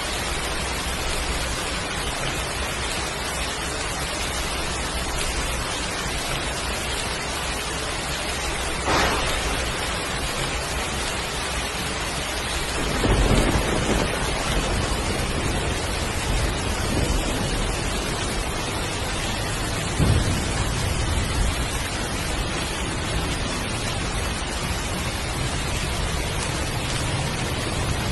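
Heavy, steady rain with thunder: a sharp crack about nine seconds in, then rumbling thunderclaps about thirteen and twenty seconds in.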